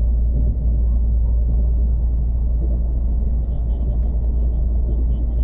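Steady low rumble of a moving train, even and unbroken throughout.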